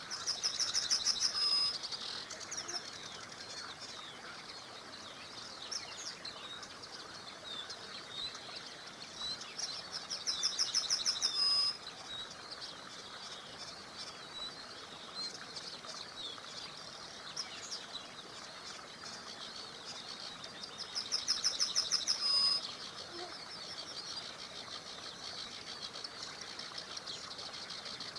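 Birds singing: one songbird repeats a loud, fast trilled phrase three times, about ten seconds apart, each lasting about a second and a half and stopping abruptly. Softer chirps from other birds fill the gaps.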